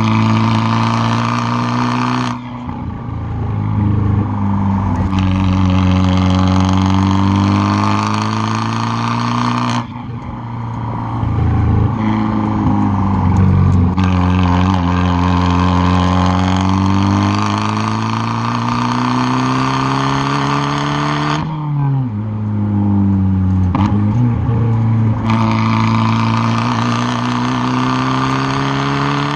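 Exhaust of a tuned 2013 Fiat 500 Abarth's turbocharged four-cylinder, heard close up at the rear bumper while the car is driven hard: the engine note climbs and falls repeatedly with the revs. Three times it drops off suddenly as the throttle is lifted.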